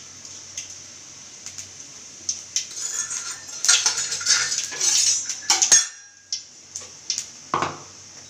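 Metal kitchenware clinking and clattering: a few light clinks, a dense stretch of clatter over about three seconds in the middle, then a few more separate clinks.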